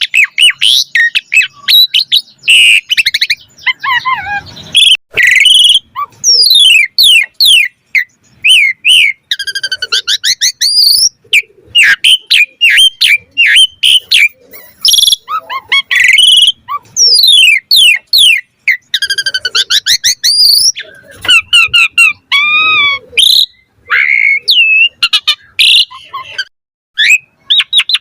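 Asian pied starling singing continuously: a loud, varied run of whistles, rising and falling glides, quick chirps and short rattling trills, packed with the borrowed phrases that bird keepers call 'isian'.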